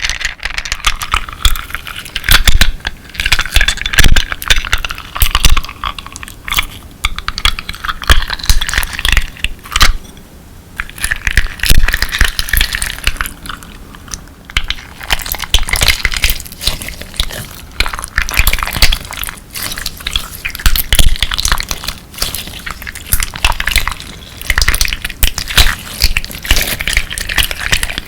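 Clear slime with colourful crystal pieces mixed in, squeezed and pressed by hand: a dense, crunchy crackling of many small clicks and pops, coming in irregular surges.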